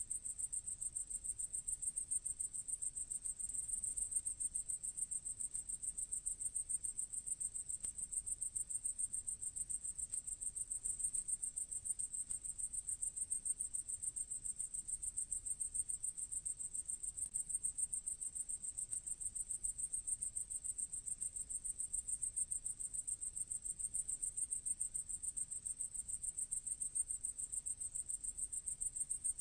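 Grasshopper stridulating: a steady, high-pitched trill of rapid, even pulses.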